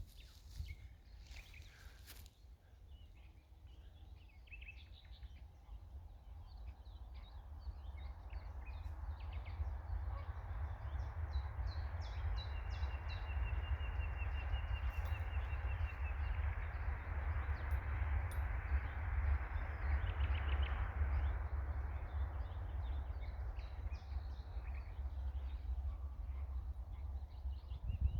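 Outdoor ambience: faint scattered bird chirps and a short rapid trill over a steady low rumble, with a hiss building from about eight seconds in.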